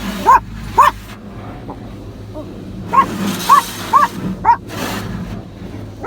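Small dog barking in short, sharp yaps: two about half a second apart near the start, then four more in quick succession about three seconds in.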